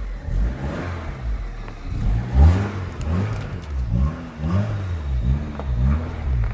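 MG ZR's K-series engine revving, its pitch rising and falling over and over, about one or two times a second, as the car is driven for the first time after ten years laid up.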